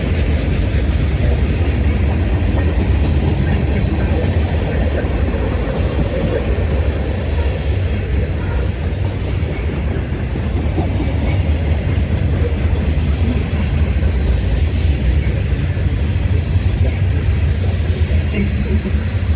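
Freight cars rolling past at a steady speed: continuous, unbroken wheel-on-rail noise, heaviest in the low end.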